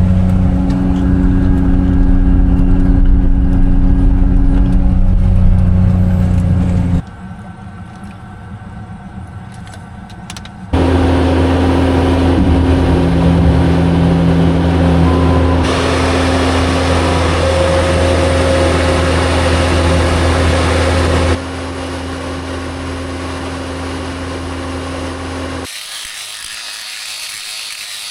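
A vehicle engine running at a steady pitch, its loudness dropping and jumping back abruptly several times.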